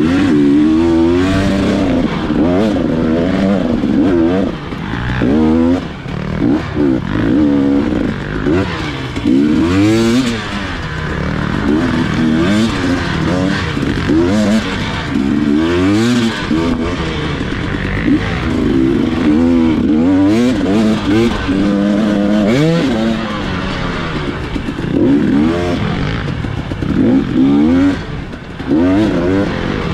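Dirt bike engine revving up and down over and over as the throttle is opened and closed on the trail, with repeated rising and falling pitch.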